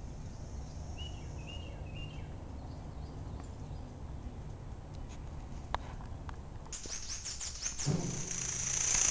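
A few short bird chirps about a second in, over a steady low outdoor rumble. From about seven seconds a louder rustling hiss with crackles builds to the end.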